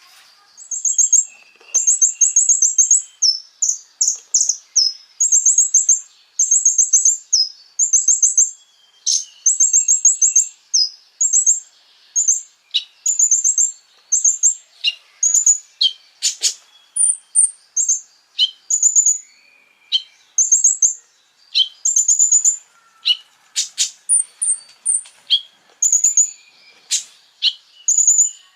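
Konin bird singing: a long series of short, very high, rapid trills repeated with brief gaps, with sharp clicking notes joining in towards the end. It is masteran song, the recorded call used to teach caged songbirds.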